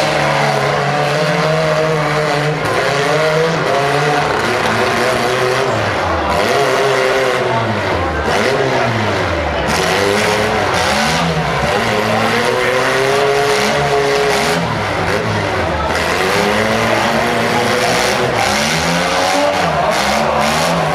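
Small-car demolition derby engines revving hard and dropping back, again and again, several at once with the pitches overlapping.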